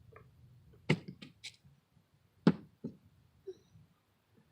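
Two sharp knocks about a second and a half apart, the second the loudest, with a few fainter taps between and after them.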